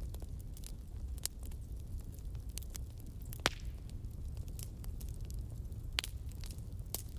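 Wood campfire burning: a steady low rumble of the flames with scattered sharp crackles and pops, the loudest pop about halfway through and another near the end.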